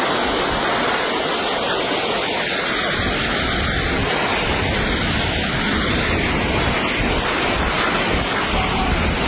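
Loud, steady rushing noise with no distinct separate sounds.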